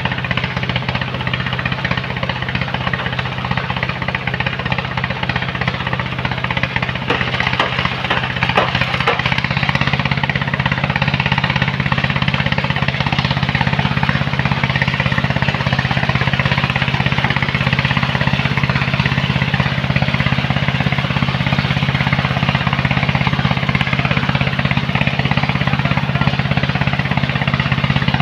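Diesel engine of a heavy loading machine running steadily with a rapid, even rattle, growing louder about ten seconds in as it works.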